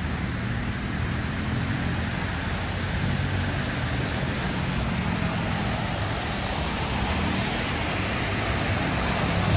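Heavy rain falling in a steady rush, with a low vehicle rumble underneath.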